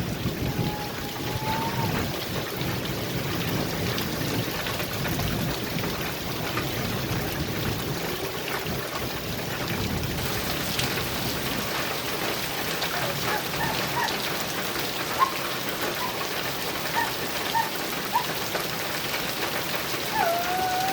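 Heavy rain falling steadily on a metal roof. A low rumble of thunder dies away over the first several seconds.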